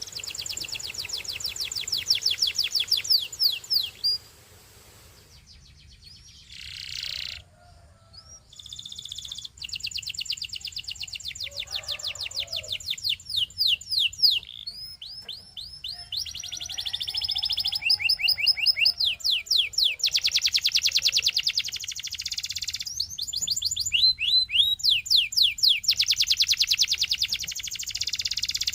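Belgian singing canary singing rapid trills: long runs of quick, repeated sweeping notes in a series of phrases, with a short quieter pause a few seconds in.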